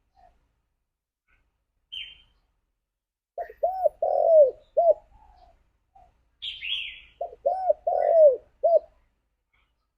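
Spotted dove cooing: two phrases, each of four arching notes with the third drawn out longest, the second about three seconds after the first. Short, higher chirps come shortly before each phrase.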